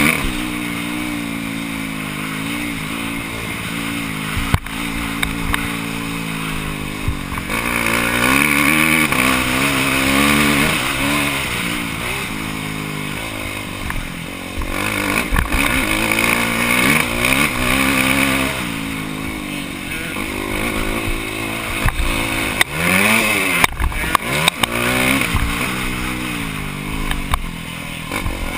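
Motocross bike engine heard from on board, its revs repeatedly climbing and dropping as it accelerates and backs off around the track, with occasional sharp knocks.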